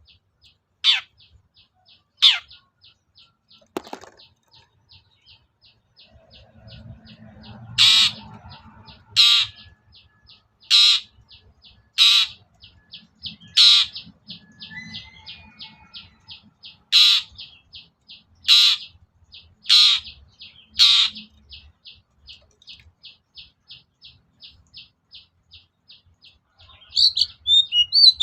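Long-tailed shrike (cendet) calling: loud, harsh, downward-sweeping notes about every second and a half, over a fast, even ticking of short high notes at about four a second. A burst of mixed chattering comes near the end.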